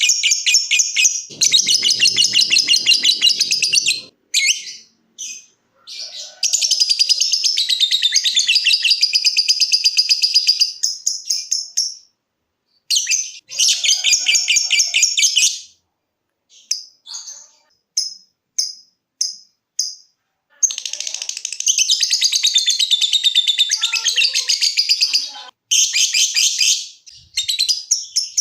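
Lovebird ngekek: long bouts of rapid, shrill chattering calls, each lasting several seconds, broken by short pauses. Midway comes a run of short separate chirps, the ngetik calls, about one or two a second.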